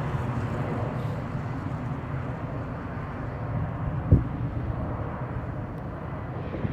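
Airliner jet engine rumble, fading over the first second and settling to a steady low roar, with a single short knock about four seconds in.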